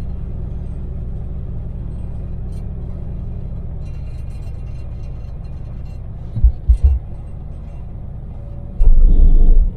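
Cabin noise of a Daewoo Damas microvan at speed: its small three-cylinder LPG engine and the road noise make a steady low rumble. About two-thirds of the way in come three short, loud low thumps, and near the end a much louder low, rough rumbling sets in.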